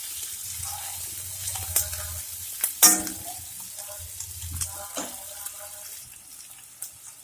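Chopped onions and green chillies sizzling in hot oil in a kadhai while a spatula stirs and scrapes them, with a few sharp spatula knocks on the pan, the loudest about three seconds in. The onions are being fried soft before the spices go in, and the sizzle grows quieter near the end.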